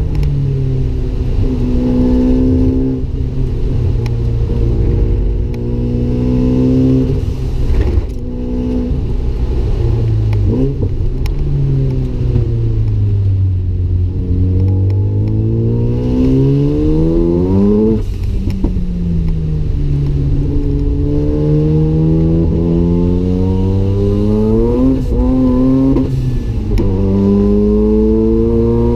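Single-turbo Mazda RX-7 rotary engine under hard acceleration on track. The pitch climbs steadily and drops sharply at each upshift, three times, with one stretch in the middle where it falls off as the car slows, then picks up again.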